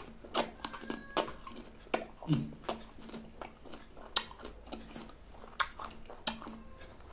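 A person chewing a juicy small yellow fruit with closed lips, close to the microphone: irregular wet mouth clicks and smacks, about a dozen of them.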